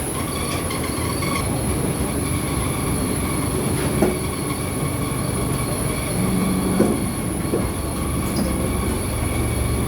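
Steady low rumble of a vehicle in motion, with faint constant whining tones and a few light clicks.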